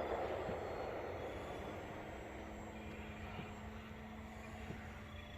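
Electric ducted-fan RC jet (80mm EDF) making a high-speed pass out of a dive, its rushing whoosh fading steadily as it flies away.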